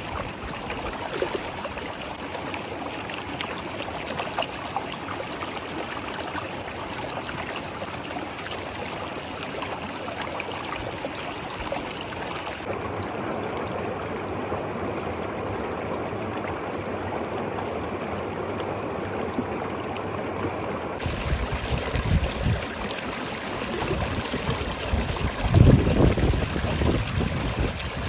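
Steady rushing of a flowing river. A few low rumbling bumps come in over it near the end.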